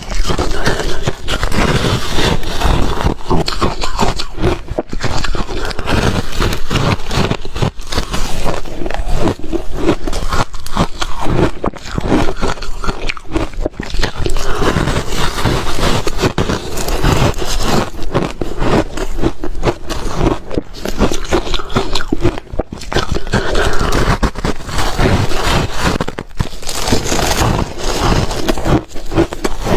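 A person biting and chewing ice close to the microphone: dense, irregular crunching and crackling with only brief pauses.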